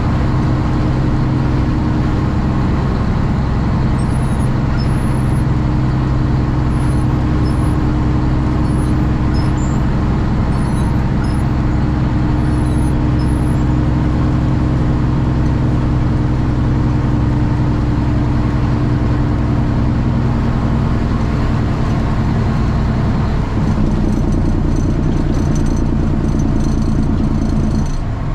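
Straight-piped Cummins ISX inline-six diesel of a Kenworth T800 truck running steadily and loud; its engine note changes about 23 seconds in and again just before the end.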